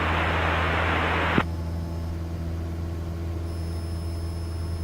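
Steady drone of the Cessna 172's engine and propeller in the cabin. For about the first second and a half a radio hiss plays over it, then cuts off suddenly with a click.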